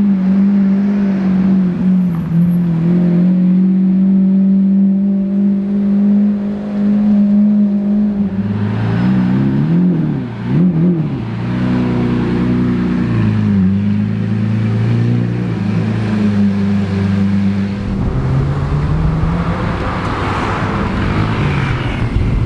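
Supercar engines running, with a steady engine note, then two quick throttle blips about nine to eleven seconds in, settling to a lower steady note that climbs again near the end as a car accelerates.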